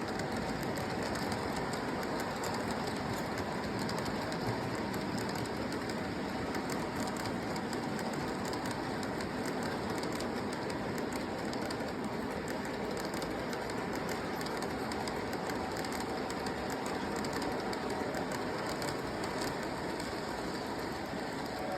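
Model train running steadily on the layout track: a continuous rolling rumble of wheels and motor with a fine stream of clicks over the rail joints.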